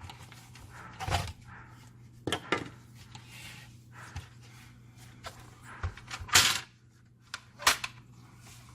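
Clicks and clatters of hard plastic and metal parts being handled while servicing a laser printer fuser unit, in several separate knocks with the loudest near the end, over a steady low hum.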